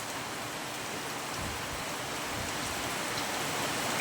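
Steady rain falling on a roof, a continuous hiss that grows slightly louder toward the end.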